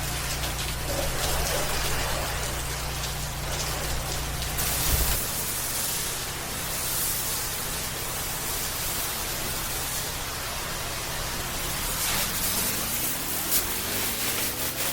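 Water spraying from a soft-wash hose in a steady hiss. A low machine hum stops about a third of the way through, and near the end a motor spins up with a rising whine.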